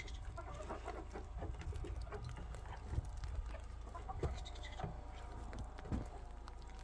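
Farm animals calling faintly, with scattered knocks and clicks over a steady low rumble.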